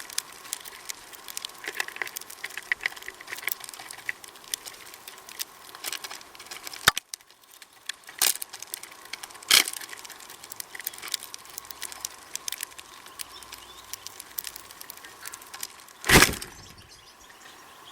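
Irregular light clicks and taps with a few louder knocks, the loudest about sixteen seconds in: birds pecking and cracking seed at a feeder.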